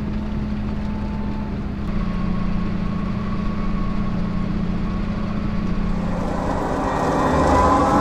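Tractor engine running steadily under load, driving a feed wagon through its PTO. Near the end a higher, multi-toned mechanical whine builds and grows louder.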